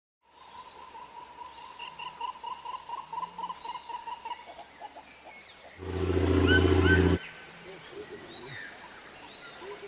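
Wild animal ambience: a steady high insect buzz and a rhythmic chirping call repeating about three times a second. About six seconds in, a loud low drawn-out call or roar lasts over a second, with a few rising bird chirps over it.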